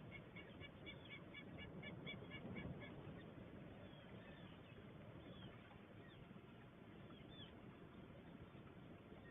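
A bird calling in a rapid series of short, evenly spaced high notes for about the first three seconds, then only a few faint chirps, over a steady low background hiss.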